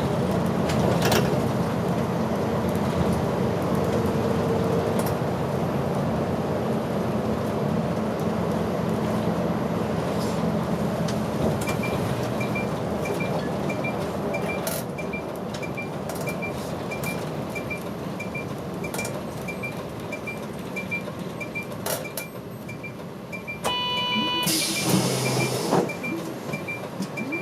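Route bus's diesel engine and road noise fading as the bus slows to a stop, with the turn-signal relay ticking steadily from about halfway. Near the end a short electronic chime sounds, followed by a loud hiss of compressed air from the bus's pneumatic system.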